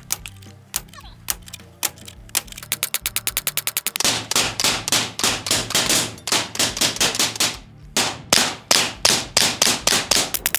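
Pistol-calibre gunfire from several guns: scattered shots at first, then fast overlapping strings of about four to five shots a second, with a short pause near the end before another fast string.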